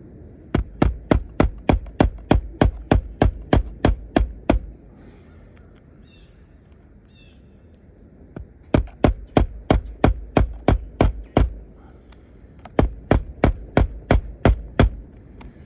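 Hammer blows driving roofing nails with a roof snake shingle-repair tool: three fast runs of sharp strikes, about four a second, with short pauses between.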